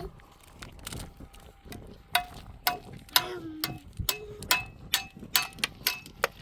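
A series of sharp knocks or taps of a hard object, irregular and about two a second, several leaving a short ring.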